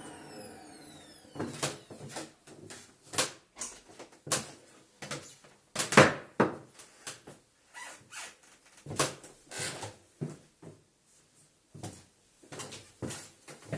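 Bosch bagless vacuum cleaner's motor winding down after being switched off, its whine falling in pitch over the first second or so. Then a string of irregular clicks and knocks as the cleaner's parts are handled.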